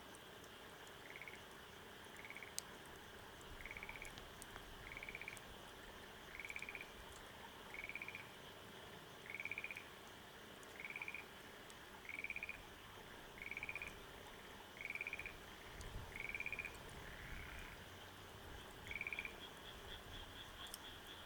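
An animal call, a short pulsed croak near 2 kHz, repeated about every one and a half seconds, a dozen or so times, over a steady hiss. Faint sharp crackles of a wood fire come now and then. Near the end a high, continuous trill begins.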